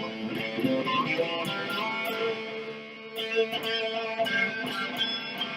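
Electric guitar played through distortion, picking slow notes that ring on with many overtones, a new note struck every second or so.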